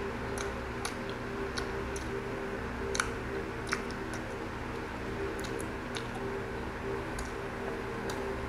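A person chewing food with the mouth closed: small wet clicks and smacks scattered throughout, two a little louder around three to four seconds in, over a steady low background hum.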